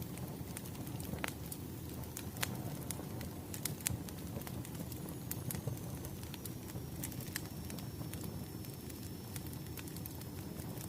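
Crackling wood fire: a steady low rumble with frequent irregular sharp pops and crackles. A faint thin high tone comes in about halfway through.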